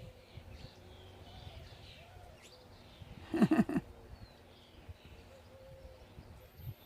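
Small birds chirping and singing in short, scattered notes, with one brief louder low-pitched sound about halfway through.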